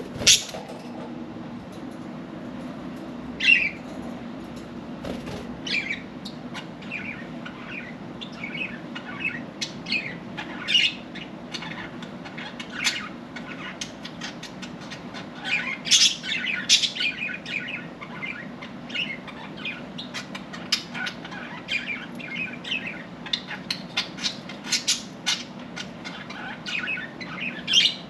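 Budgerigars chirping and chattering in quick, irregular calls, with louder flurries now and then, over a steady low hum.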